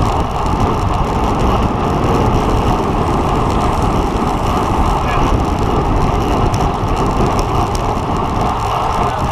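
Wind rushing steadily over the microphone of a camera riding on a road bike at race speed, a loud continuous rush with no breaks.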